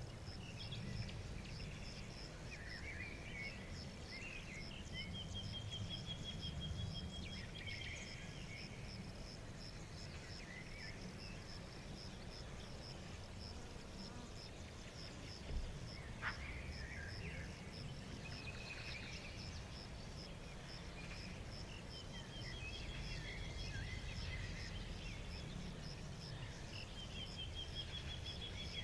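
Forest ambience: birds singing in short phrases, including several fast trills, over a steady, evenly pulsing high chirp like a cricket or other insect and a low background rumble. There is a brief click about halfway through.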